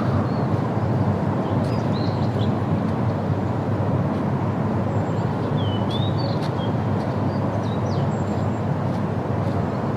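Steady low outdoor rumble, with birds giving short, scattered chirps and quick whistled notes over it, a few near the start, around two seconds in, around six seconds in and near eight seconds.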